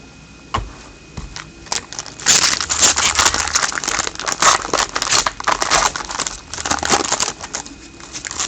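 Foil wrapper of a trading card pack crinkling as it is torn open and handled, after a few light clicks.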